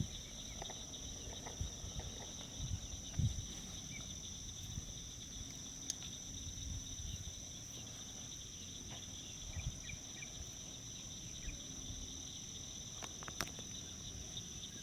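Steady high-pitched chorus of insects trilling, over a low rumble, with a few faint short chirps and a couple of clicks.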